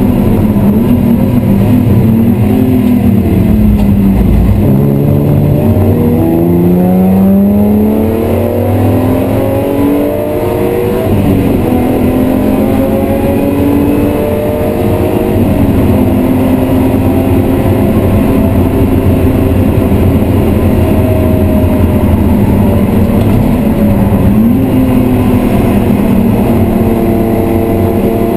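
BMW E36 M3's 3.0-litre straight-six running hard, heard from inside the cabin: the note drops low about four seconds in, then climbs steadily through the revs with a sudden fall at each upshift, and holds a steadier high note later on. Road and wind noise run underneath.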